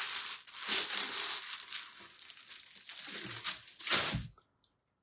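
Packaging crinkling and tearing as it is pulled open by hand, with a few louder rips, cutting off suddenly about four seconds in.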